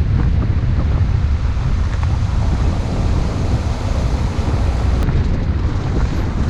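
Wind buffeting the microphone: a loud, steady low rumble with no clear tone or rhythm.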